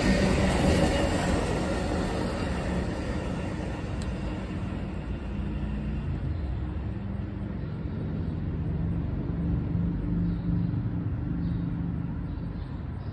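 Amtrak Auto Train auto-rack cars rolling past on the rails, then moving away: wheel-on-rail noise is loud at first and fades within a few seconds to a low rumble as the end of the train recedes.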